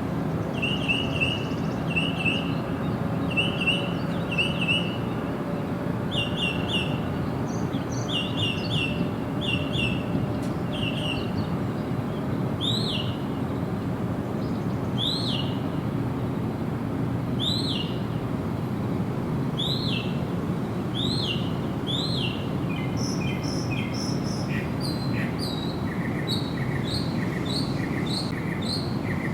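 Several birds calling over a steady background hiss. First come bursts of short chirps, then single arching notes about every two seconds, then a fast run of repeated notes near the end.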